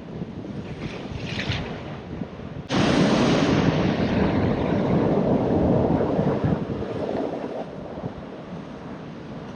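Ocean surf with wind buffeting the microphone; about three seconds in a wave breaks with a sudden loud wash that fades away over the next few seconds.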